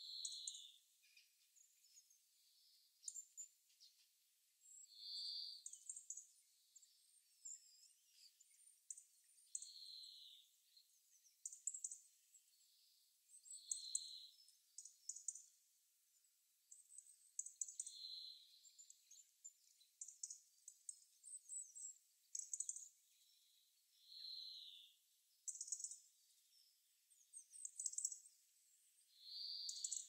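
Faint songbirds calling: a soft, slightly longer call note repeats every four to five seconds, with many short, high chirps in between.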